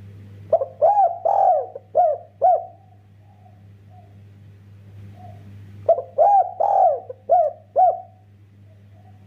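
Spotted dove (derkuku) cooing: two phrases of about five notes each, the second about five seconds after the first, over a steady low hum.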